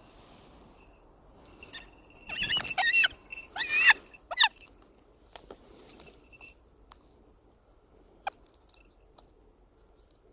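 Northern goshawk giving a quick run of about four short, wavering squealing calls, with faint rustling and a single sharp tick near the end.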